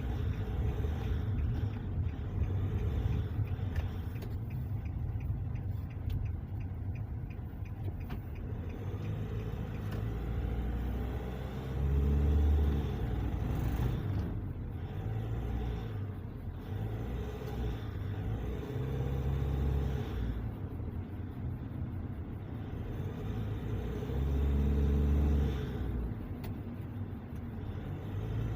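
Vehicle driving on the road, a steady low rumble that swells louder twice for a second or two, during a road test of its rebuilt differential (new bearings, side gears and pinion gear), which the mechanic judges okay now.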